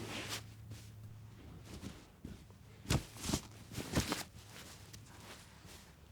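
A few light knocks and thuds, clustered about three to four seconds in, over a low steady hum.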